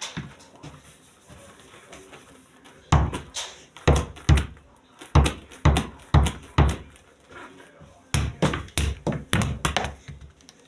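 A series of dull thumps and knocks, about two a second, starting about three seconds in, with a brief pause before a second run near the end.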